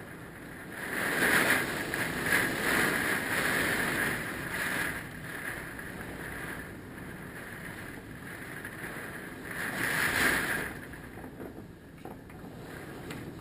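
Hurricane-force wind blowing in gusts, swelling strongly about a second in and again around ten seconds.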